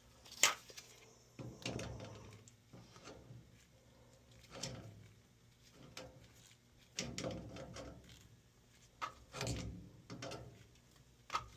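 Scattered clicks, knocks and rubbing of hands and tools on metal fittings, coming every second or two: a manometer pressure probe being worked off the test port of a gas water heater's control valve.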